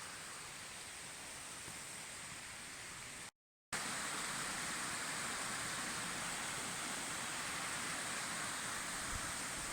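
Mountain stream rushing over rocks, a steady hiss of flowing water. It drops out briefly about a third of the way in and comes back louder.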